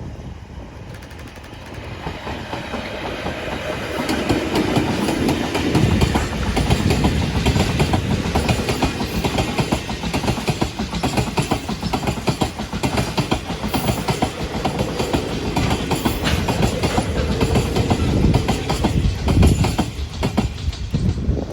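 Cement freight train headed by two electric locomotives passing close by, its wagons' wheels clacking quickly over the rail joints. The sound builds over the first few seconds and then stays loud.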